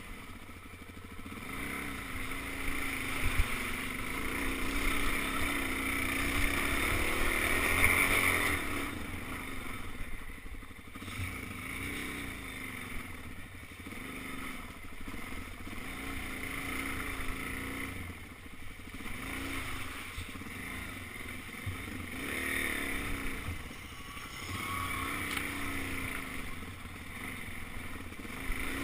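Suzuki DR-Z400 dirt bike's single-cylinder four-stroke engine running on a trail ride, its revs rising and falling with the throttle, climbing to the loudest point about seven seconds in before easing off.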